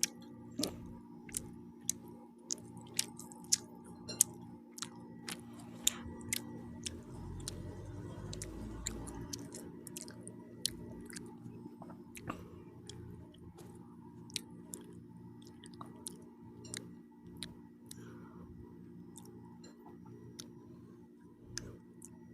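A person chewing pizza close to the microphone, with wet mouth smacks and clicks, frequent in the first third and sparser later on.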